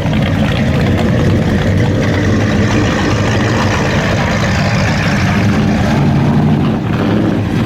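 American V8 muscle car engines idling and creeping along at low speed, a steady low engine note.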